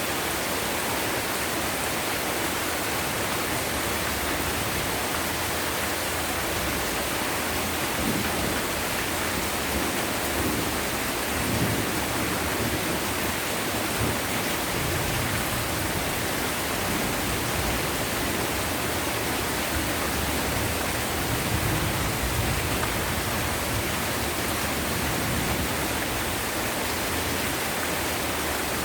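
Heavy rain pouring down in a steady hiss, with rolling thunder rumbling low underneath from about eight seconds in until past twenty seconds.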